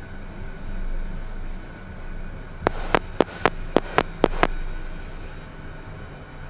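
A quick run of about eight sharp clicks, a little under a second and a half to two seconds long, over the steady hum of the Beechcraft Premier's cockpit. This is typical of the microphone push-to-talk being keyed several times in a row to bring up a ground communications outlet (GCO).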